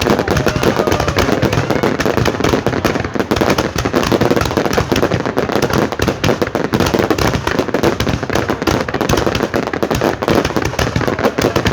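Fireworks display going off nonstop: a dense, continuous crackle of many pops and bangs a second, loud and unbroken.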